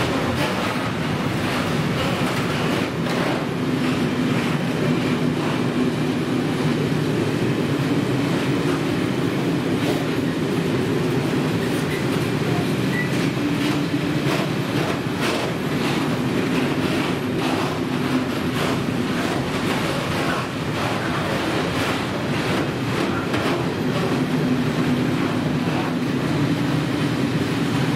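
A long freight train rolling through a level crossing: a steady rumble of wheels on rail with a continuous irregular clatter as the wagons pass over the rail joints.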